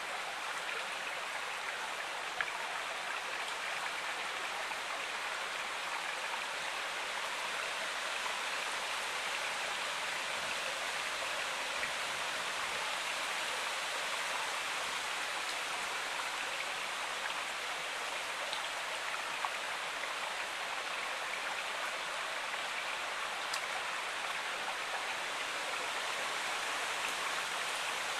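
Stream water flowing steadily, an even rushing with a few faint ticks and no change in level.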